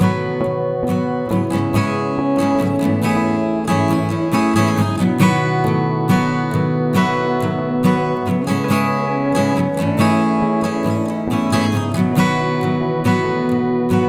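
Background music: acoustic guitar playing, plucked and strummed at a steady rhythm.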